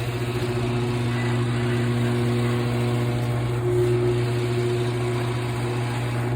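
LiftMaster Professional chain-drive garage door opener running, a steady motor hum as it drives the door.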